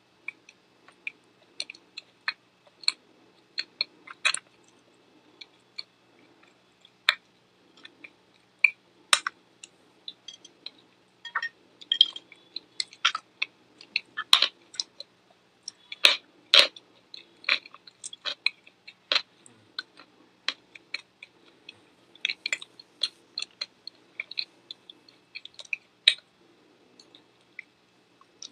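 Close-miked eating: a person biting and chewing crispy, crumbly food, making irregular sharp crunches and mouth clicks that come thickest in the middle.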